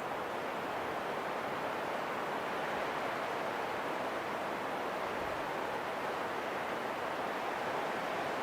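Steady wind blowing, an even rushing hiss with no gusts or breaks.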